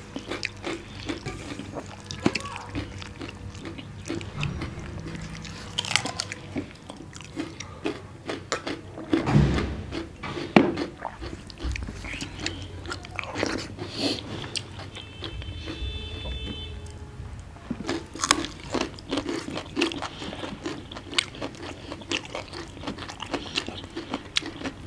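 Close-miked eating sounds: two people chewing and smacking on mouthfuls of rice and chicken liver curry, with wet squelches of fingers mixing rice in steel plates. A couple of louder dull thumps come near the middle.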